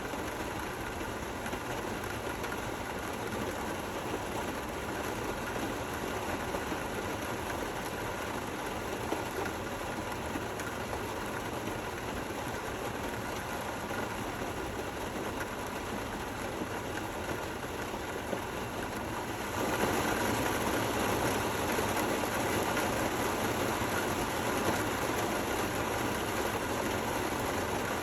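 Steady rain falling, an even hiss and patter. About two-thirds of the way through it suddenly becomes somewhat louder and fuller, then stays that way.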